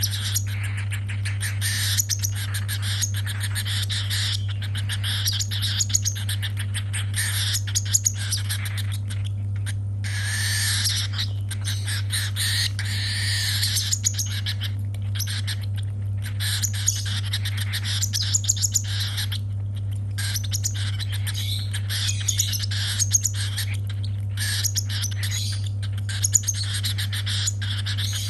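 Hungry baby cockatiel's raspy food-begging calls, rapid and nearly continuous with short breaks, over a steady low hum.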